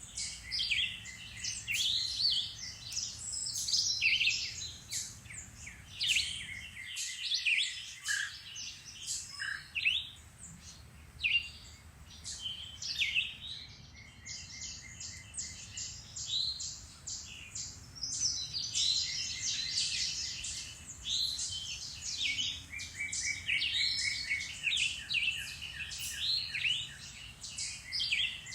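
A woodland chorus of many songbirds chirping and singing, with short calls and trills overlapping. It thins out for several seconds in the middle, then builds up again.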